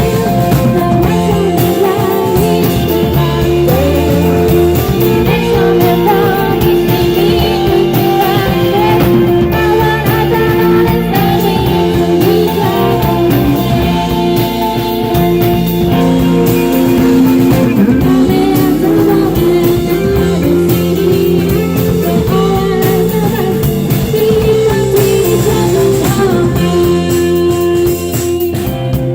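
Live indie rock band playing, with guitars and singing.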